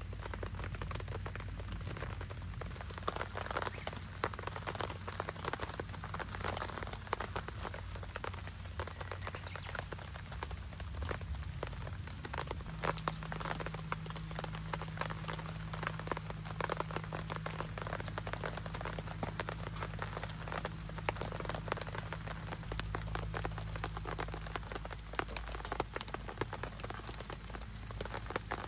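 Steady rain, with many small drops pattering and ticking on a surface.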